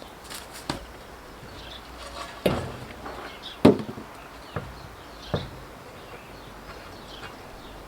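A handful of irregular, sharp knocks and clanks, the loudest about three and a half seconds in, over faint background noise.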